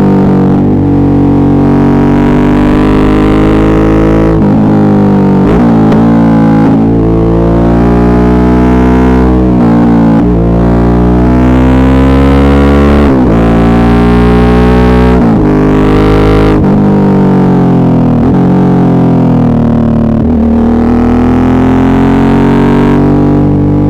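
Suzuki V-Strom 650's 645 cc V-twin engine running under way, its pitch rising and falling with the revs and dropping suddenly several times, as at gear changes or throttle closing.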